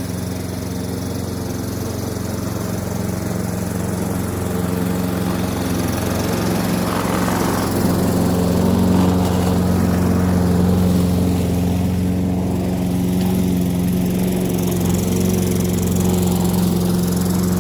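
Petrol lawn mower engine running steadily while mowing, a little louder in the middle.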